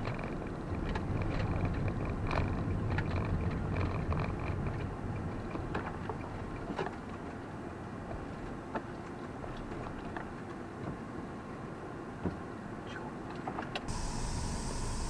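Low, steady vehicle rumble with scattered light clicks and knocks. About 14 seconds in it cuts abruptly to a steady high hiss.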